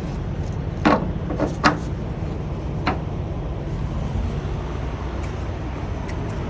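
Steady low rumble of diesel fuelling at a semi truck's tank, with four sharp clicks or knocks between about one and three seconds in.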